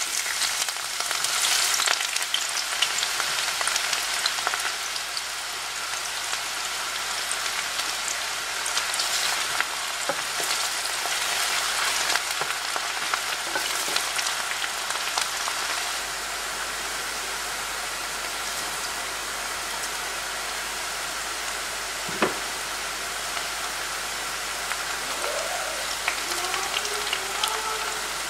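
Sliced onion and garlic sizzling in hot oil in a frying pan. The hiss is loudest as they go in at the start, then settles to a steady frying sizzle while a wooden spatula stirs them, with one sharp tap on the pan about two-thirds through.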